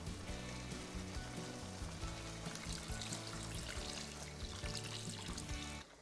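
Background music with steady held notes over the sizzle of chicken curry cooking in the pan with its tomato paste and a little water. Both fall away shortly before the end.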